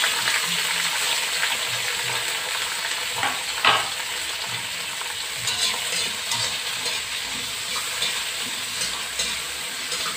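Sliced chillies, shallots, garlic and tomato sizzling in hot oil in a metal wok just after going in, stirred with a metal spatula that scrapes the pan now and then, hardest about three and a half seconds in.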